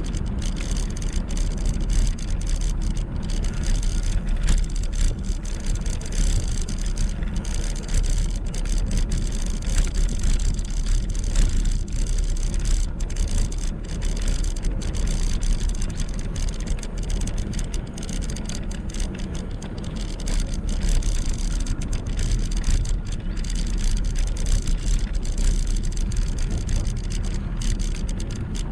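Steady rumble of wind on the microphone and tyre noise from an e-bike being ridden, with a constant hiss and no clear breaks.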